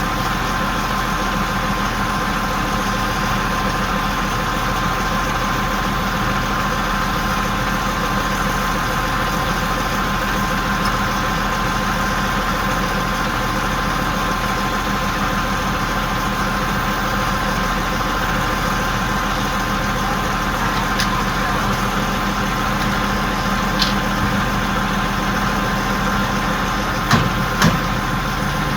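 Big crane's engine idling steadily, with a constant whine over the low running sound. A few sharp clicks or knocks come near the end.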